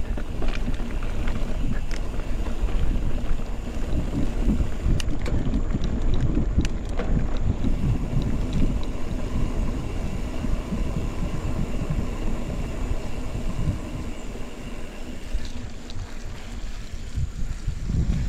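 Wind buffeting the microphone of a riding mountain bike, a fluctuating low rumble with scattered clicks and rattles from the bike on a rough track. The rumble eases a little about two-thirds of the way through.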